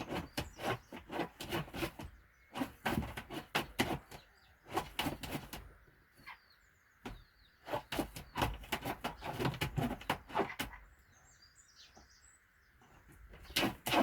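A hen scratching and shuffling in the nesting material of her nest box, an irregular run of scratches and taps with two short lulls. A frog calls steadily and faintly behind.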